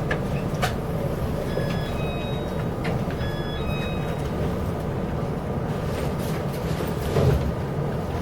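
Inside a Chu-Kuang express passenger coach running along the line: a steady low rumble of the wheels and carriage, with a few sharp clicks. Two short clusters of brief high tones sound about one and a half and three and a half seconds in.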